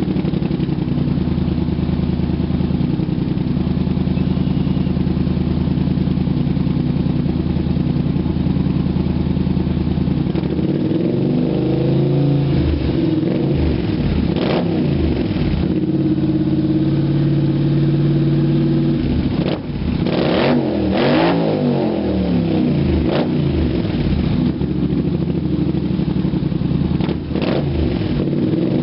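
A 2010 Polaris Sportsman 850 XP ATV's parallel-twin engine running through a Hot Seat Performance slip-on exhaust. It idles steadily for about ten seconds, then is revved again and again, its pitch rising and falling with each blip of the throttle and settling back to idle in between.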